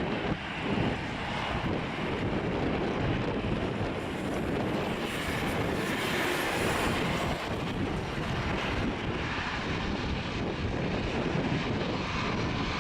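Jet aircraft engines running steadily, mixed with gusty wind buffeting the microphone.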